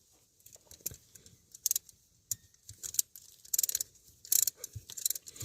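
Scattered small metal clicks and short runs of rapid clicking and rattling: a ratcheting wrench with a T20 bit and loose tools being handled while driving dashboard screws back in.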